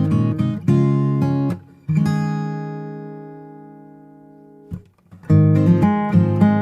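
Background music on acoustic guitar: strummed chords, then one chord left to ring and fade for nearly three seconds, and the strumming picks up again near the end.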